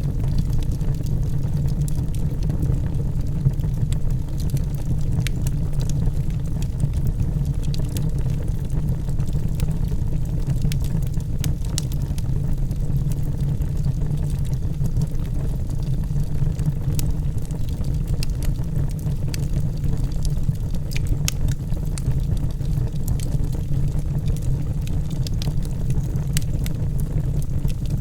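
Logs burning in a fireplace: a steady low rumble of the fire with scattered sharp crackles and pops.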